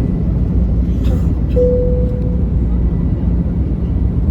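Airliner cabin noise as the plane takes off: a loud, steady low rumble of engines and runway. A short steady tone sounds about a second and a half in.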